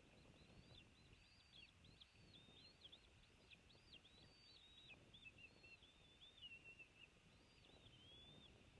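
Faint, quick run of thin, high-pitched whistled bird notes, each note rising and falling, with a short pause about seven seconds in before a few more.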